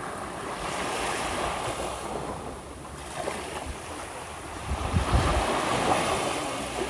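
Small waves washing onto the shore, swelling twice, with wind buffeting the microphone in low thumps near the middle.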